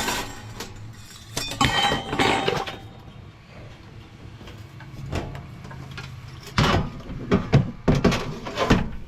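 Clatter and knocks of a diesel heater's plastic casing being handled as its cover is fitted back on. The loudest run of knocks comes in the last couple of seconds.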